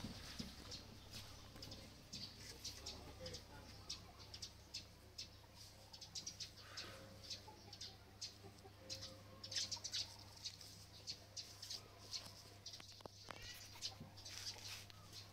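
Faint, irregular bird chirps and clucks, many short high calls scattered throughout, over a steady low hum.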